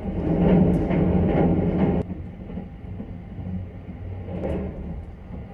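Sunrise Express sleeper train running, heard from inside a private compartment: a steady rumble, louder for about the first two seconds and then dropping suddenly, with a brief swell near the end.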